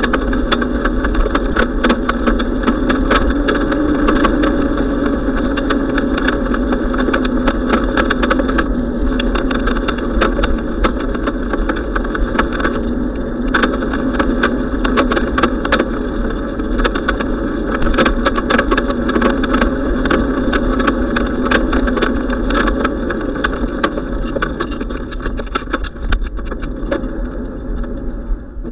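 Steady wind rumble and road noise on a camera riding on a moving bicycle, with many sharp rattles and clicks throughout; it drops off suddenly at the very end.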